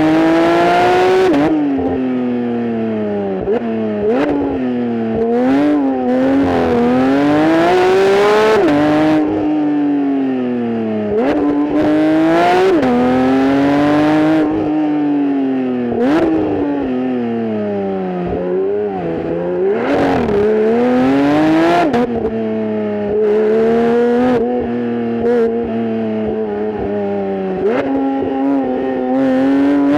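Porsche 992.1 911 GT3's 4.0-litre flat-six engine and exhaust under hard driving: the pitch climbs under acceleration, drops sharply at gear changes and sinks as the car slows, over and over.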